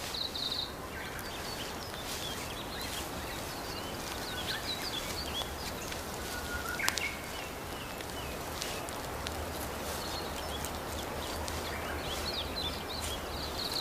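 Forest ambience: scattered short bird chirps over a steady hiss, with an insect's high steady buzz at the very start and again near the end, and a single sharp click about seven seconds in.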